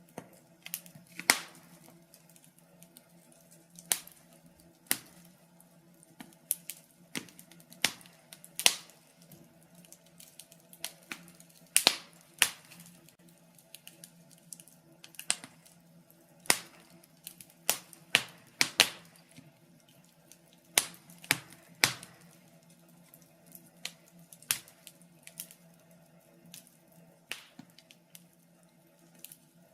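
Burning logs in a fireplace crackling, with irregular sharp pops and snaps, some in quick clusters, over a faint steady low hum.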